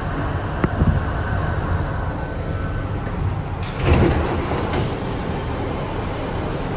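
Kawasaki R62 subway car running along the track, heard from inside the car as a steady rumble. A couple of short knocks come just under a second in, and a louder rushing swell comes about four seconds in.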